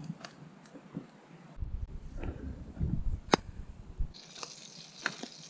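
Light clicks and a low rumble, with one sharp click about three seconds in. About four seconds in, butter starts sizzling steadily in a frying pan heating over a campfire.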